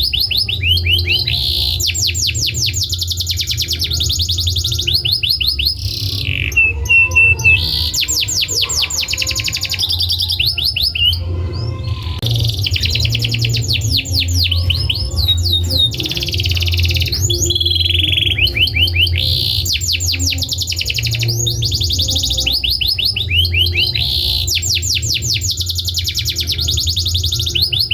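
Domestic canary singing a long, continuous song of fast rolling trills, each a rapid run of repeated short high notes, over a steady low hum.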